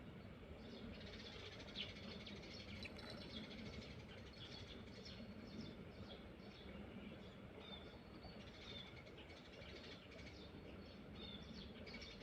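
Faint birds chirping: many short, scattered calls over a low, steady background hush.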